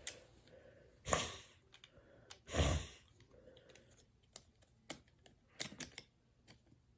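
Small plastic toy mechanism parts being handled and fitted together: two louder knocks about one and two and a half seconds in, then a scatter of light clicks.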